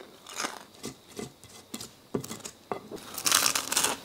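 A person eating deep-fried skewers: soft chewing at first, then a louder crisp crunching about three seconds in as a crispy fried piece is bitten into.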